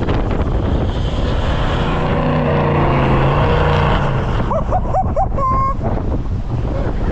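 Strong wind buffeting the microphone over a vehicle engine running, with the engine's low hum steady for a couple of seconds in the middle. A few short, squeaky rising calls come about five seconds in.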